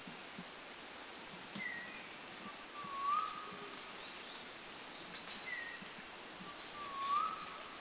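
Birds singing in woodland: one bird repeats a whistled phrase twice, about four seconds apart, a short higher note followed by a lower swooping whistle. Many thin, high chirps run under it.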